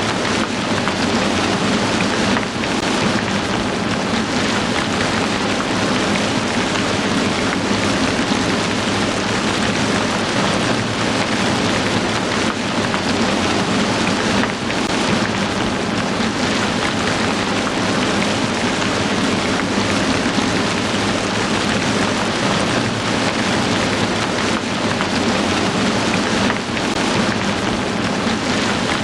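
Heavy rain falling steadily, an even dense hiss of many drops.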